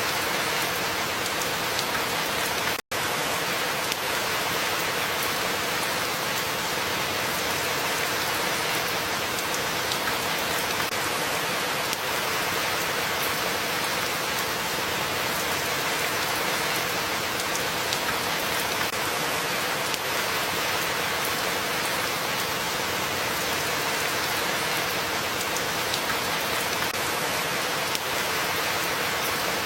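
Steady, dense rainfall, with a split-second dropout to silence about three seconds in.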